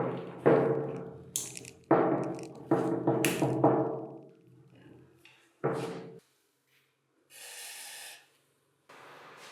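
Hammer blows on the metal parts of a handheld concrete vibrator being knocked apart, about eight strikes in quick groups, each ringing with a steady tone that dies away. A short hiss follows near the end.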